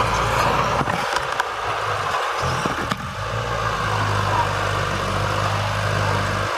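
Diesel engine of heavy earth-moving machinery running steadily with a low drone, briefly dropping out about two seconds in, with a few light clatters.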